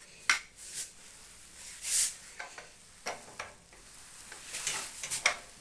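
Clicks and short scrapes of microwave oven parts being handled and fitted during reassembly. There is a sharp click just after the start, a longer scrape about two seconds in, and a quick run of clicks near the end.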